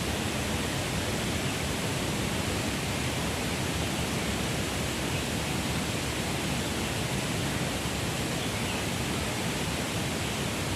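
Steady, unbroken rushing noise that does not rise or fall, spread evenly from low to very high pitch.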